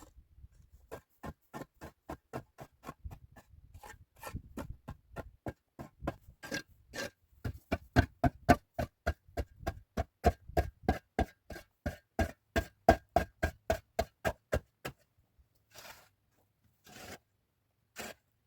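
Steady, rapid knocking, about three sharp strikes a second, with a ringing tone in the strikes through the middle. The knocking stops at about 15 s, and three more scattered knocks follow near the end.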